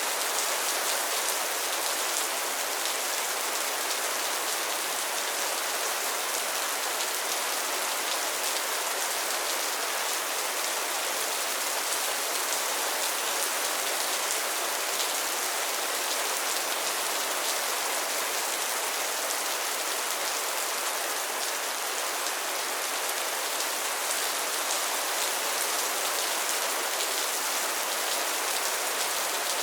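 Steady rain falling on a pond's surface and lily pads, a dense even patter of drops.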